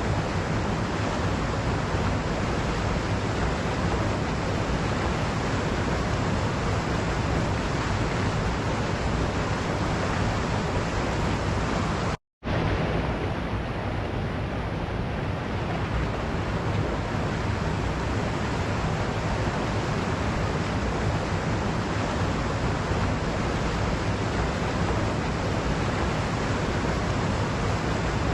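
Waterfall: a steady, unbroken rush of falling water, dropping out to silence for a split second about twelve seconds in.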